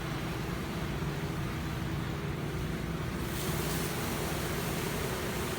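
Touchless automatic car wash running: a steady low hum, joined about three seconds in by a sudden high hiss of water spraying from the jets.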